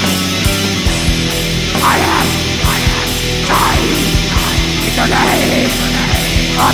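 Black metal music: distorted electric guitars and drums with regular kick and cymbal hits, joined about two seconds in by shrieked vocals.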